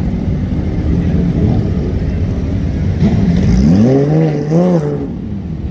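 A car engine idling, then revved up and back down once about three seconds in.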